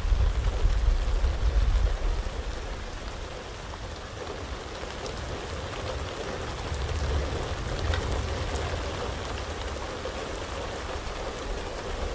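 Heavy rain falling steadily, with a deep low rumble underneath that swells in the first two seconds and again around the middle.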